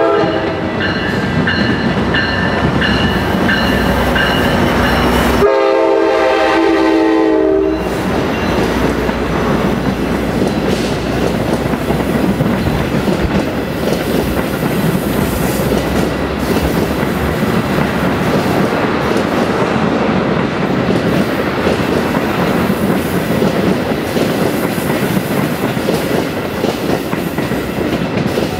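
Metra EMD F40PH diesel locomotive's horn sounding a long blast, then a second shorter blast that ends about eight seconds in, as the commuter train passes. After the horn, the train of bilevel passenger cars keeps rolling past, with steady wheel-on-rail noise and the clickety-clack of wheels over rail joints.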